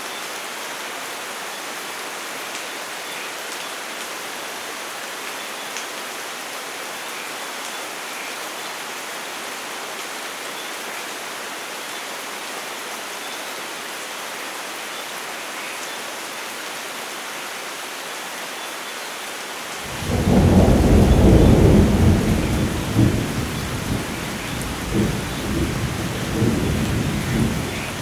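Steady heavy rain hissing, then about two-thirds of the way through a loud clap of thunder breaks in suddenly and rolls on in uneven low rumbles.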